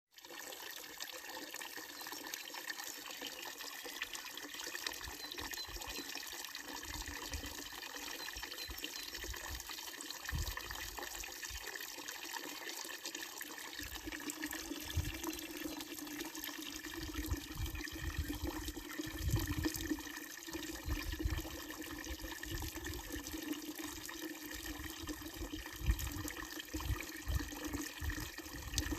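Water running steadily from a wooden trough spout of an old village fountain, splashing into the basin below. Low rumbles come and go from about ten seconds in.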